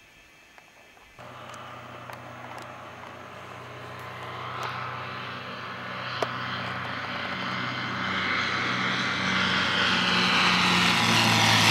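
Light propeller airplane's piston engine droning steadily, growing louder throughout as the aircraft approaches. The drone comes in abruptly about a second in, and there is a single sharp click about six seconds in.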